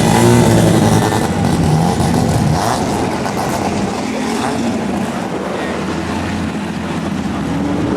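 Racing car engine passing close and loud, its pitch dropping as it moves away and fades into steadier engine noise from the track.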